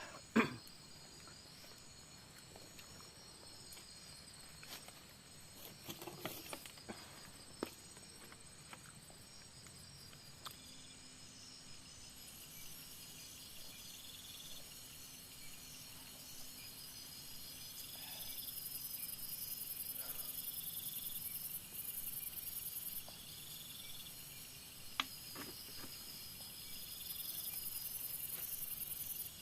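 A chorus of crickets and other forest insects, chirping in a steady, evenly repeating pattern. About twelve seconds in a very high-pitched insect buzz joins and swells louder twice. A few short clicks and knocks stand out here and there.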